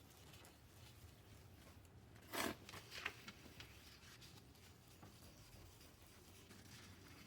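Near-silent room tone broken about two and a half seconds in by one short scraping rub, followed by a few light clicks.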